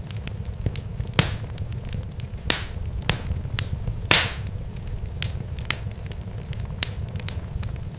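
Irregular sharp crackles and pops, several a second, over a steady low rumble. Louder pops come about a second in and at two and a half seconds, and a longer hissing pop comes just after four seconds.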